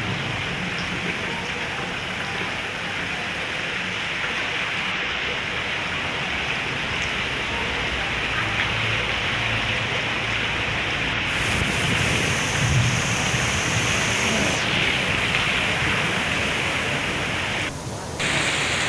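Heavy rain pouring steadily, with a brief dip in level near the end.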